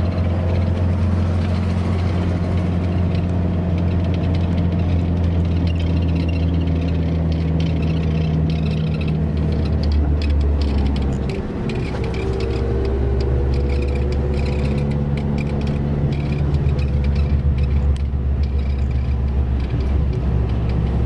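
Heavy road vehicle's engine running steadily with a deep drone. The engine sound dips briefly about halfway and then climbs again, and frequent rattling clicks come through over the second half.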